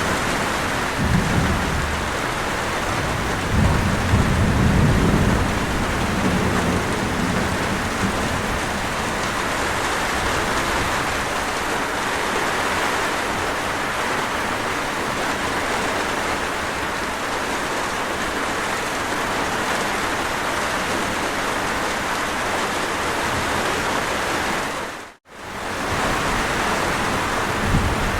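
Steady heavy rain with low rolls of thunder in the first several seconds. The rain cuts out abruptly for a moment about three seconds before the end, then resumes.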